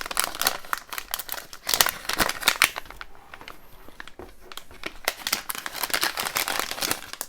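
Plastic packaging crinkling and rustling as it is handled and searched through, with small irregular clicks.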